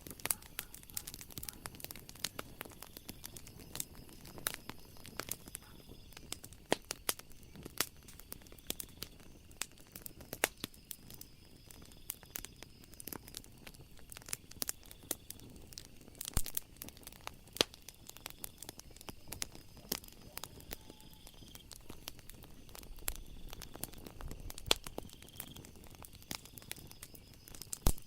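Wood fire crackling and popping in irregular sharp snaps, some louder than others, with a low swell of flame about three-quarters of the way through. A faint, steady, high trill of night insects runs behind it.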